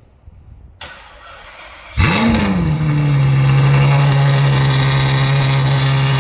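Ferrari F12's 6.3-litre V12, catless and straight-piped, cold starting: a short whir, then it fires about two seconds in with a quick flare of revs that drops into a steady, loud high cold idle.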